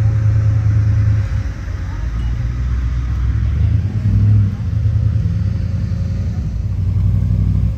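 A car engine running at idle, low and steady, with a brief rise in pitch and level about four seconds in, as if lightly revved.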